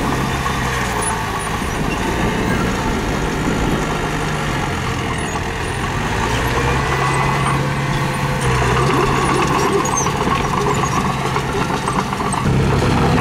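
Diesel engine of heavy earthmoving equipment running under load, its pitch stepping up and down a few times and growing louder near the end, with a rough clatter over it.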